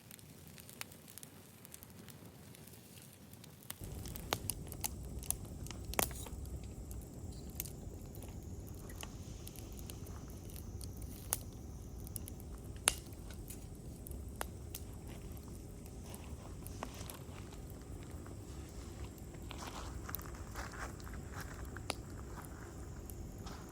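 Wood campfire crackling, with scattered sharp pops and snaps. A steady low rumble comes in about four seconds in and stays under the crackle.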